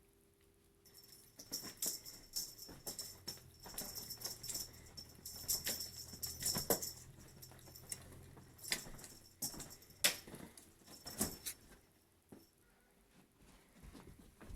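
Irregular jingling and rattling, in uneven shakes that start about a second in and die away near the end.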